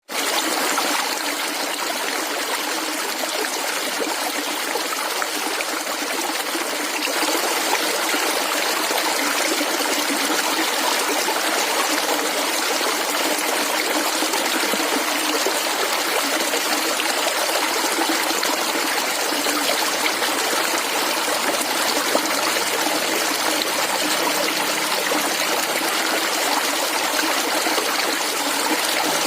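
Clear, shallow water flowing and gurgling steadily over stones, as in a small stream, growing slightly fuller about seven seconds in.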